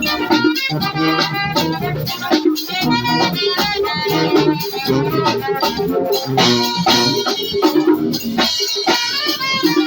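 Brass band playing a lively tune: horns carrying the melody over steady percussion.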